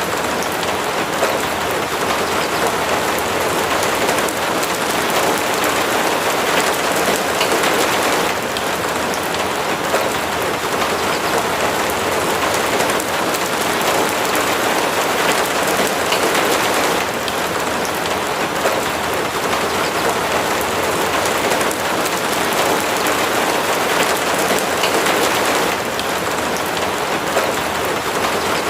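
Steady heavy rain falling, a dense, even hiss of countless close drops.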